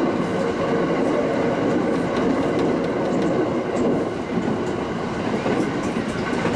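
Tsugaru Line local train running between stations: a steady rumble of wheels on rail, with faint steady high-pitched tones above it.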